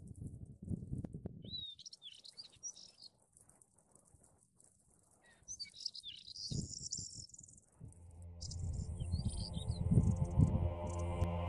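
Small birds giving short high chirping calls, in two spells a few seconds apart, over a low rumble. About eight seconds in, music with a steady drone fades in and grows louder.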